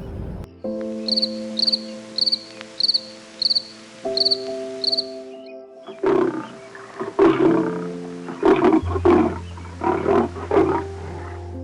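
Buffalo grunting and bellowing in a run of short, rough calls from about halfway on, over soft background music. In the first half, with the music, a high chirp repeats about twice a second.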